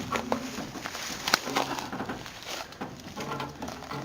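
Hand-cranked come-along and tow strap working under the load of a raised truck: scattered sharp clicks and knocks, the loudest about a second and a half in.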